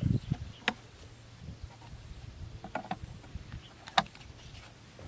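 A low thud, then a few separate sharp clicks or taps spread over several seconds, with a low hum underneath.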